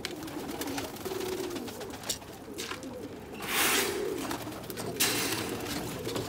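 Domestic pigeons cooing, low and repeated, with two short rushes of noise about three and a half and five seconds in.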